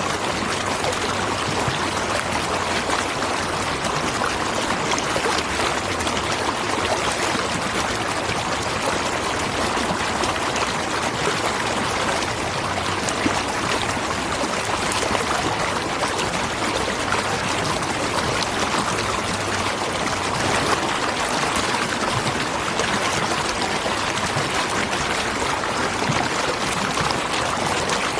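Waterfall: water falling and rushing in a steady, even splash with no break.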